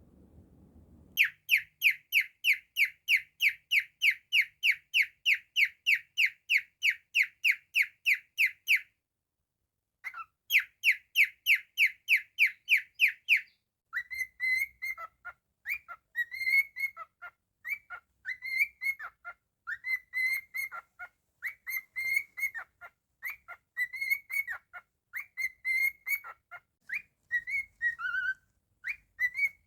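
Cockatiel whistling: a fast run of short, falling chirped notes for several seconds, a brief pause and another run, then about halfway through a varied whistled song of warbling notes.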